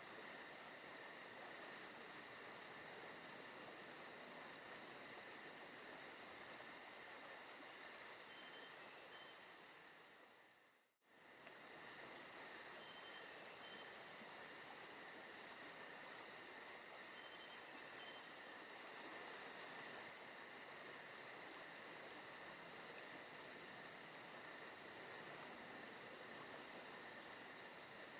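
Faint forest ambience of a steady insect chorus, with a rapid high pulsing trill over it. It fades out briefly about eleven seconds in and comes straight back.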